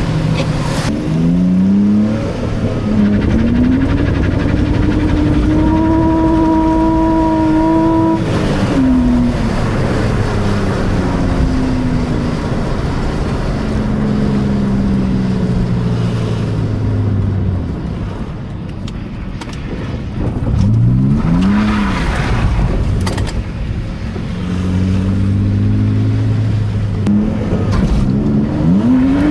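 BMW E46 328Ci's straight-six engine revving hard and falling back again and again under drifting, with a long high-rpm hold about six seconds in, a quieter lull around eighteen seconds, and the revs climbing sharply again near the end.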